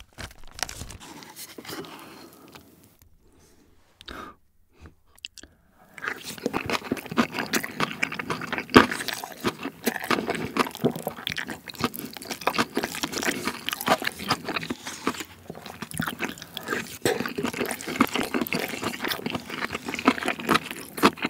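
Close-miked chewing of tuna kimbap coated in tteokbokki sauce: a dense run of small clicks and crunches from about six seconds in. Before that comes light rustling as the plastic wrap is pulled off the roll and it is laid in the sauce.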